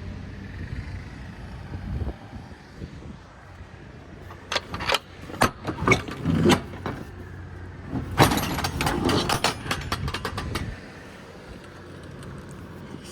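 Metal clanking and rattling in two busy spells, about four seconds in and again about eight seconds in: the hardware of a semi trailer's rear doors and gear being handled, over a low steady rumble.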